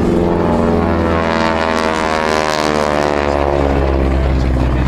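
Propeller airplane engine droning overhead, its pitch bending as the plane passes.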